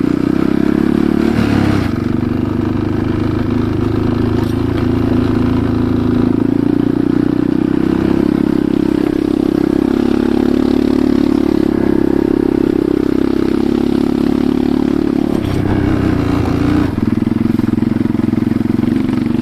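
Enduro motorcycle engine running steadily while riding, with brief shifts in its pitch about two seconds in and again around sixteen seconds in.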